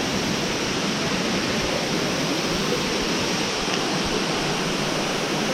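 Waterfall pouring down in a steady, even rush of water.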